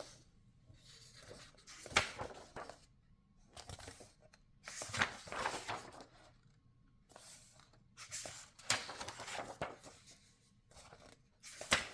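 Pages of a paperback coloring book being turned one after another: about six soft rustles and flaps of paper, with a short sharp page snap near the end.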